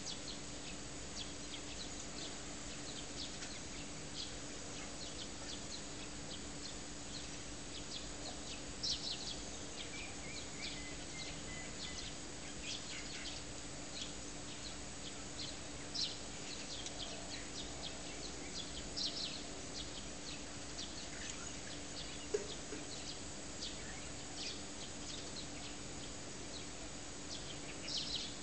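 Short, high bird chirps scattered throughout, a few of them louder, with a brief thin trill near the middle, over a steady hiss and a steady low hum.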